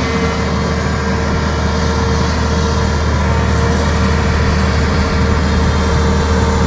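Heavy truck engine running steadily: a constant low drone with a steady whine over it.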